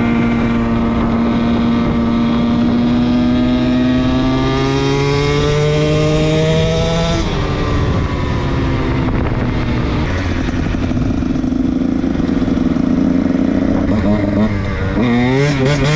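KTM dirt bike engine under hard acceleration. The revs climb steadily for about seven seconds, fall off suddenly, then run steadier before wavering quickly up and down near the end.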